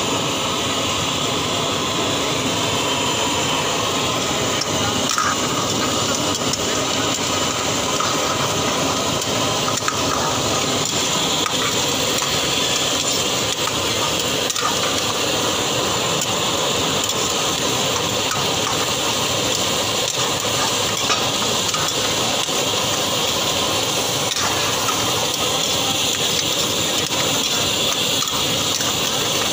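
Prawns sizzling steadily in hot oil in an iron karahi, stirred with a metal ladle.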